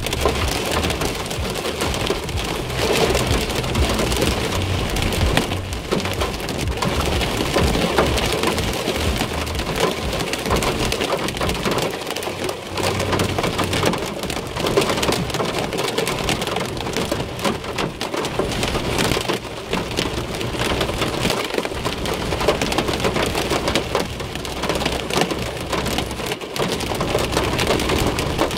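Heavy storm rain pelting a car's body and windscreen as a dense, steady patter of countless small impacts, with a low rumble rising and falling underneath.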